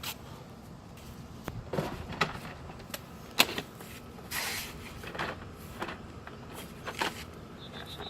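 Hard plastic beehive parts of an Apimaye hive being handled and fitted together: scattered clicks, knocks and scrapes, with one sharp knock about three and a half seconds in.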